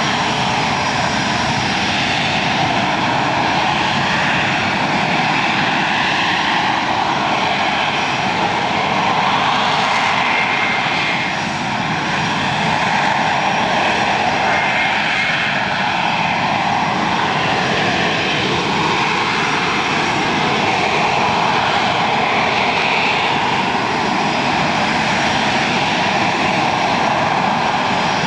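AV-8B Harrier's Rolls-Royce Pegasus turbofan running loud and steady, a continuous jet roar that wavers slowly in tone.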